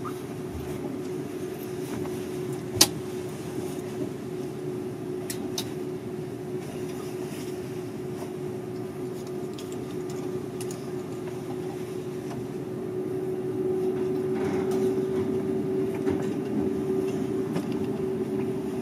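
Seibu 001 series Laview limited express train rolling slowly into its terminal stop, heard from inside the train: steady running noise with a constant hum, a sharp click about three seconds in, and the noise growing louder in the last few seconds.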